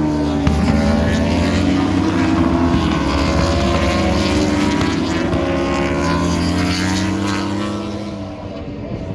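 Several World Superbike racing motorcycles passing at speed, their engines overlapping, with pitch sliding up and down through throttle and gear changes. The engine sound eases a little near the end.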